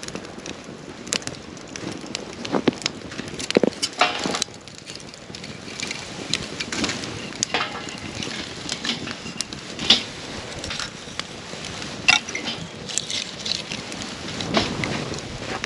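Wood campfire crackling, with irregular sharp pops over a steady hiss; the sharpest pops come about ten and twelve seconds in.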